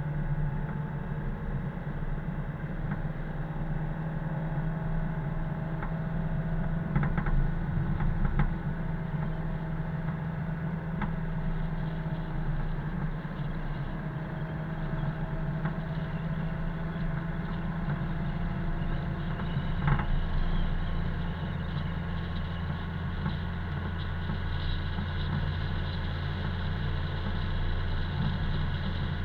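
Car driving: steady engine and road noise, a low hum with a few brief knocks and rattles scattered through it.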